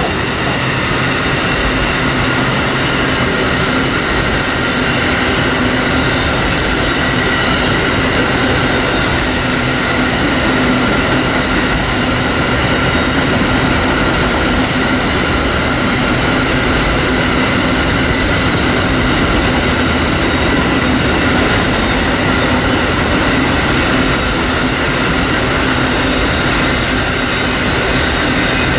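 Train cars rolling past on the track: a steady, loud rumble with several high ringing tones held throughout.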